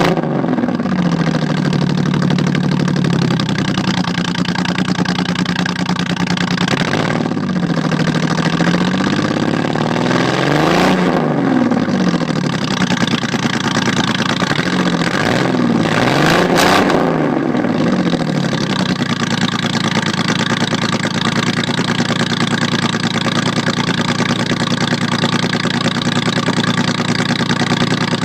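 A 2003 Ford Taurus's V6 running through a straight-piped exhaust just after a cold start, on an engine that has sat for a while and has a few vacuum leaks. It is blipped up and down several times, the pitch rising and falling, then settles into a steady idle for roughly the last ten seconds.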